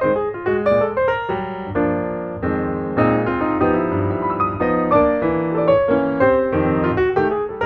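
Background piano music: quick runs of notes over sustained chords.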